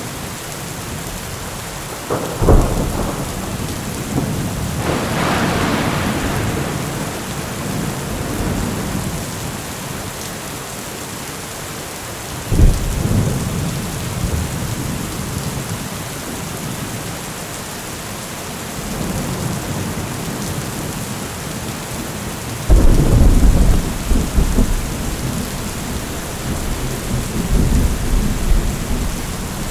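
Heavy rain falling steadily with repeated thunder. Sharp claps come about two seconds in and about twelve seconds in, each rolling off into rumbles. The loudest and longest rumble starts about twenty-three seconds in.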